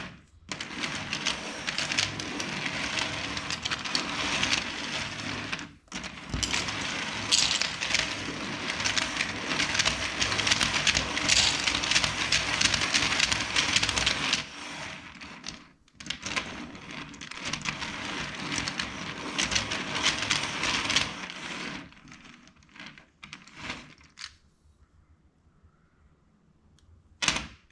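Plastic LEGO bricks clicking and rattling as they are handled: a dense stream of small clicks that stops short and starts again several times, then thins to a few scattered clicks, with one sharp click near the end.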